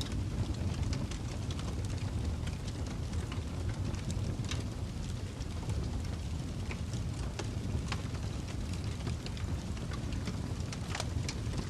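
Fireplace fire crackling: a steady low rumble with irregular sharp snaps and pops throughout.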